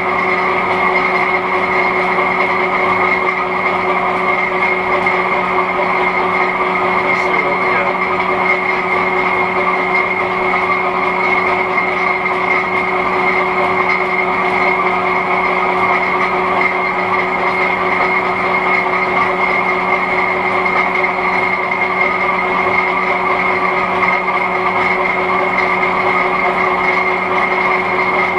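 1941 Hendey flat-belt-drive metal lathe running at a constant speed, a steady hum with a high whine.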